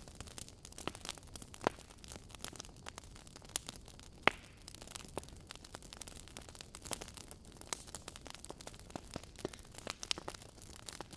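Wood fire of burning logs crackling, with irregular sharp pops over a faint steady hiss; the loudest pops come about one and a half and four seconds in.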